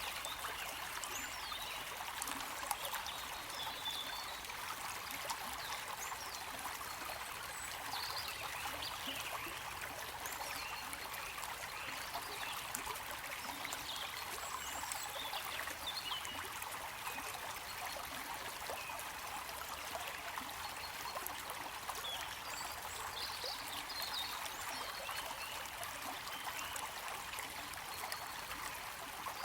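A stream of water flowing steadily, trickling without a break.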